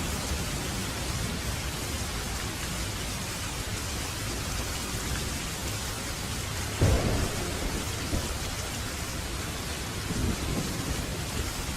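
Steady rain falling, with a sudden clap of thunder about seven seconds in, the loudest moment, followed by lower rumbles a second later and again near the end.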